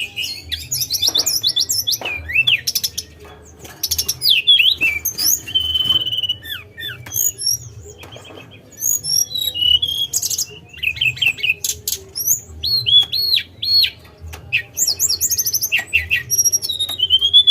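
Tledekan (Cyornis blue flycatcher) singing a fast, varied song of high whistles, trills and rising and falling slurs, delivered in bursts with brief pauses between them. A faint low hum sits underneath.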